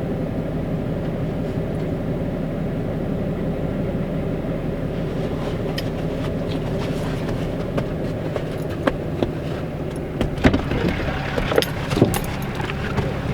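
Ram pickup's Cummins inline-six diesel engine running steadily, heard from inside the cab, with scattered clicks and rattles from about five seconds in.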